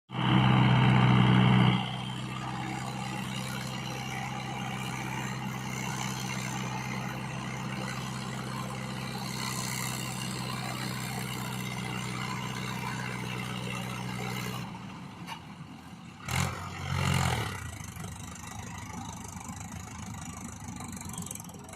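Mahindra Yuvo 575 tractor's diesel engine running steadily, loudest for the first two seconds. The engine sound drops away after about fifteen seconds and is followed by two short loud sounds.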